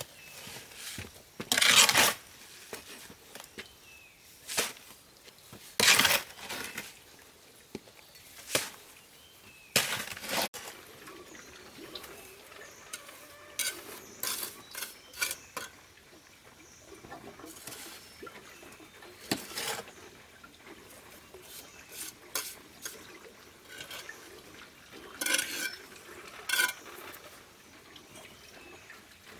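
Irregular clinks, knocks and scrapes of hard objects being handled, like metal tools or utensils against hard surfaces, a few of them sharp and loud.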